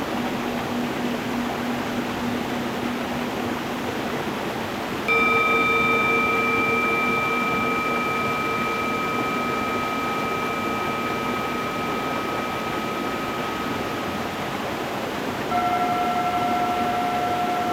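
Steady rush of a stream running over stones, with a singing bowl struck about five seconds in and ringing out slowly, then a second, higher-pitched bowl struck near the end.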